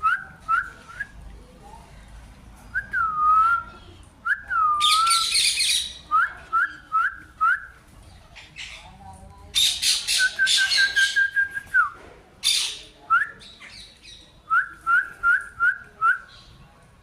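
Pet parrot whistling and screeching. It gives runs of short rising whistled chirps, a few swooping whistles and one long held whistle that drops at the end. Harsh screeches break in about five, ten and twelve seconds in.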